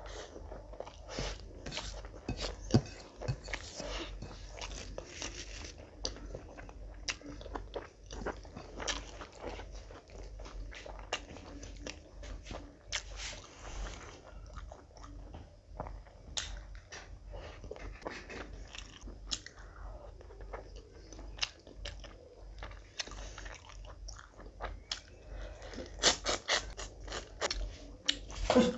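Close-miked chewing of mouthfuls of rice and curry eaten by hand, with irregular wet smacks and clicks from the mouth. A quick run of louder smacks comes near the end.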